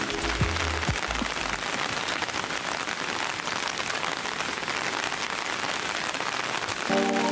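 Steady rain falling and pattering, an even wash of noise. Background music with low bass notes dies away in the first couple of seconds and comes back near the end.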